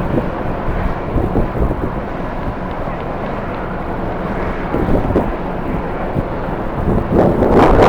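Strong wind buffeting the microphone in gusts over a steady low rumble, with the loudest gust near the end.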